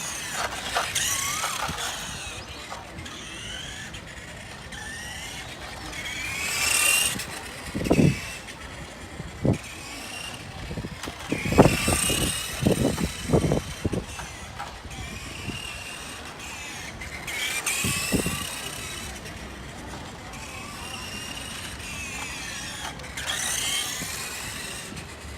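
Electric 380 motor of a 1:5 scale RC Ducati motorcycle whining, its pitch rising and falling as it speeds up and slows down over several runs. A few short low knocks come in the middle.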